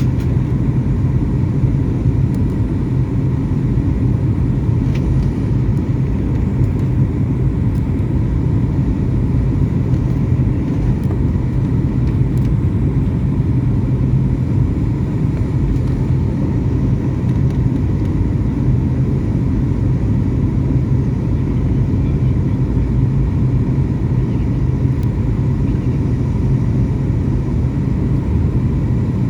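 Steady drone of an airliner's engines and rushing air heard inside the passenger cabin, a deep hum with faint higher steady tones over it.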